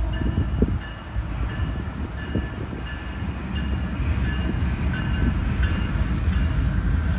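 Amtrak passenger train rumbling along the track, with short high-pitched squeals coming and going.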